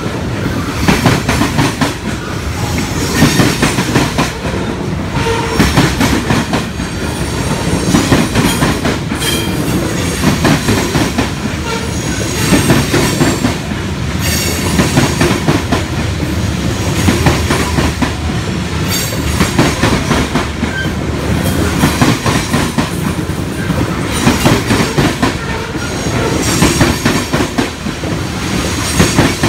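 Loaded covered hopper cars of a freight grain train rolling past, their wheels clacking over the rail joints in regular clusters of loud clicks.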